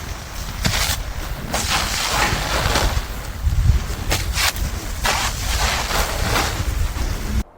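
Blizzard wind gusting hard across the microphone, with a heavy low rumble and repeated swells of rushing noise; it cuts off suddenly near the end.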